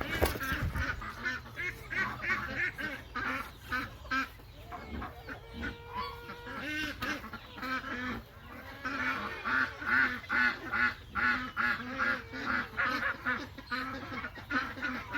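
A flock of birds calling continuously, many short pitched calls overlapping in quick succession.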